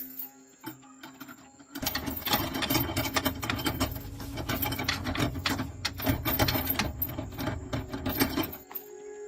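A machine running with a loud, rapid, dense rattle for about seven seconds, starting about two seconds in and cutting off sharply near the end.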